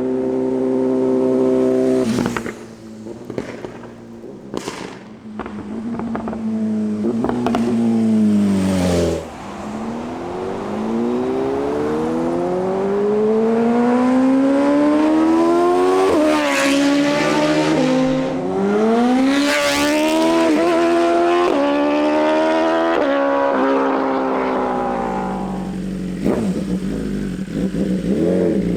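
BMW S1000RR inline-four through an Arrow Competition EVO full exhaust: held at a steady note, then off the throttle with a few sharp pops and cracks, then accelerating hard up through the gears, the pitch climbing with a short dip at each shift. Near the end the pitch falls again as it slows.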